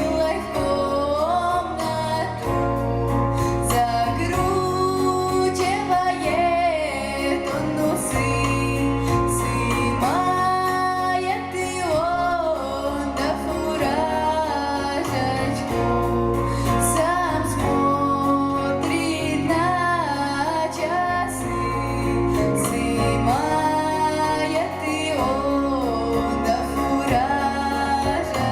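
Solo female voice singing a Russian folk song with vibrato over a steady instrumental accompaniment with a low bass line.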